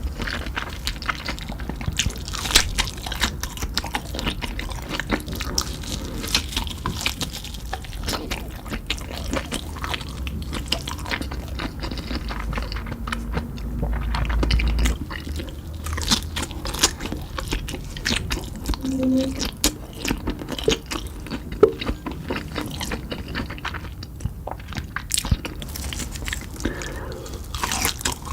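Close-up eating sounds: someone biting and chewing crunchy Cheetos-crusted meat fingers, with a dense run of sharp, irregular crunches.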